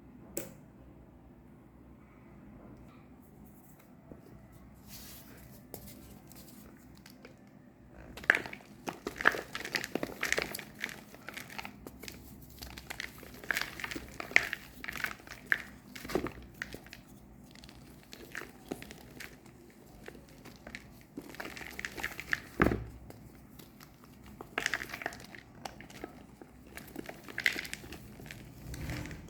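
Reformed gym chalk bars being crushed: dry crunching and crackling in irregular bursts, starting about eight seconds in after a quiet stretch with a single click near the start.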